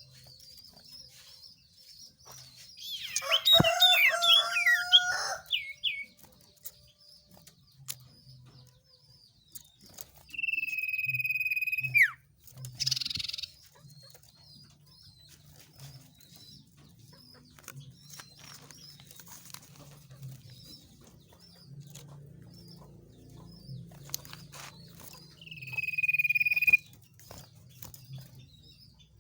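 Bird calls: a crowing, rooster-like call about three seconds in, then a long clear whistle that ends in a falling glide near the middle, and another shorter whistle near the end, over faint repeated chirping.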